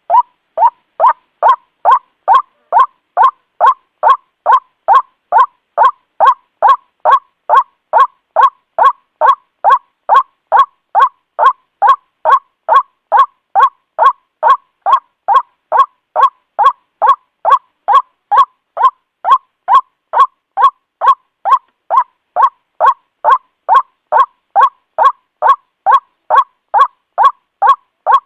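White-breasted waterhen calling its harsh, repeated 'kuwak' note, steady and even at about two notes a second, as used in a bird-lure recording.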